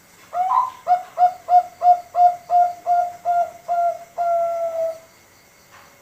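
Male zebra dove (perkutut, Bangkok contest type) singing one full song: an opening coo, then about ten short, evenly spaced coos at roughly three a second, ending on a longer drawn-out note.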